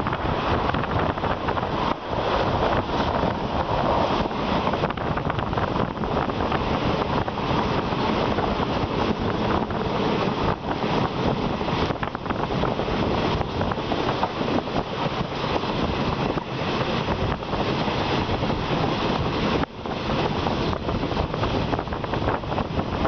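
Steady rush of wind on the microphone held out of a moving passenger train's window, over the running noise of the train on the track.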